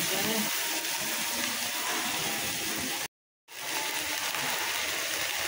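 Spice paste frying in hot oil in a metal kadai, a steady sizzle, cut off by a brief silent gap about three seconds in before it carries on.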